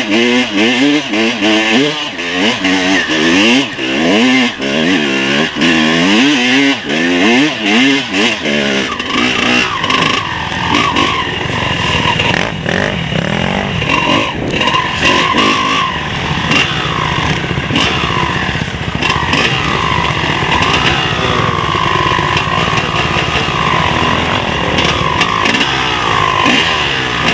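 Motocross dirt bike engines on a track, revving hard and easing off over and over so the pitch rises and falls quickly. After about nine seconds the close revving gives way to a steadier mix of engine noise with a fainter rising and falling pitch.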